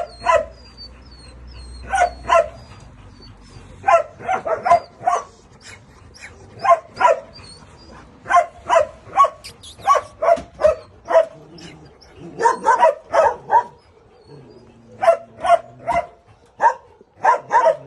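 A dog barking repeatedly, in short runs of two to five barks with brief pauses between them.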